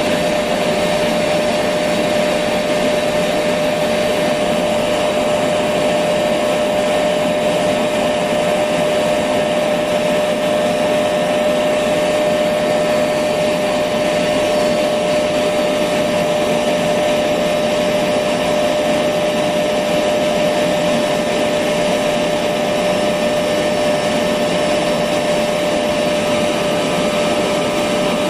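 Electric vacuum cleaner running steadily: a continuous motor whine with a constant hum, no change in speed.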